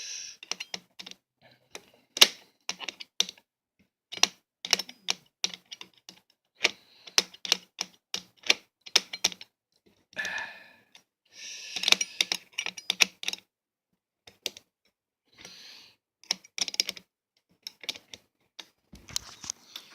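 Butter knife used as a screwdriver working a tight screw in a box fan: irregular sharp clicks of metal on the screw head, with a few short scraping stretches.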